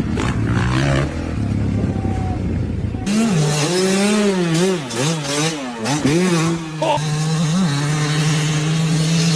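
Motocross dirt bike engines. A dense, rumbling engine noise cuts abruptly about three seconds in to a single bike's engine revving up and down several times, then holding a steady note.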